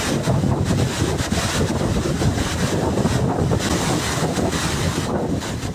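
Floodwater rushing through a street that has turned into a river, a loud steady rush with wind buffeting the microphone, easing a little near the end.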